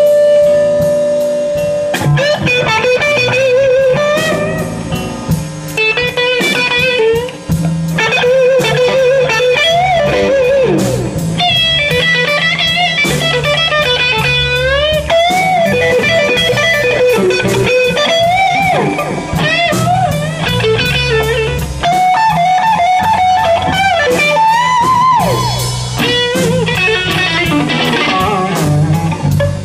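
Live electric blues band playing: a lead electric guitar solos with a long held note at the start, then string bends and vibrato, over a bass line and drum kit.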